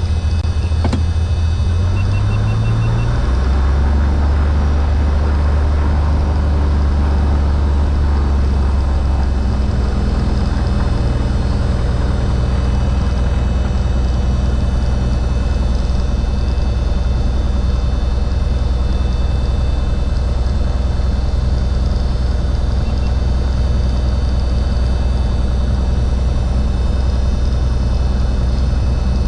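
Cessna 182 Skylane's six-cylinder Continental O-470 engine and propeller running with a steady low drone. Its pitch shifts about two to three seconds in, then holds steady.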